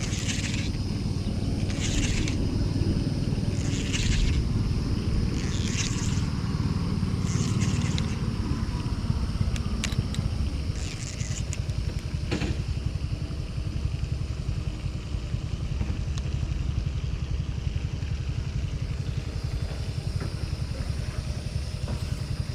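Wind buffeting the microphone, a steady low rumble. A short, high rasping call repeats about every two seconds over it for the first eight seconds or so.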